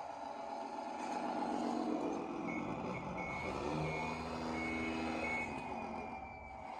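RC scale model truck's sound unit playing a truck engine running, with a run of reversing beeps, about two a second, in the middle.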